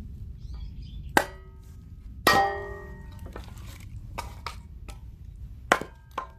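Firewood being split with an axe: three sharp blows, the second ringing briefly with a metallic clang, and a few lighter knocks in between.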